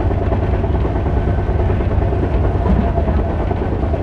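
Passenger train sleeper coach running along the line, heard from inside: a steady low rumble of wheels and running gear.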